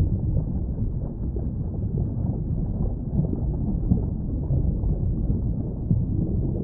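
Steady, muffled, low rumbling natural ambience with no birdsong or other distinct events.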